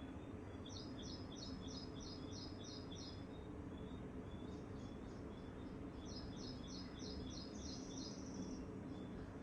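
Songbird singing two phrases of rapid, evenly repeated high chirps, about four a second, the first near the start and the second just past the middle, over a steady low background hiss.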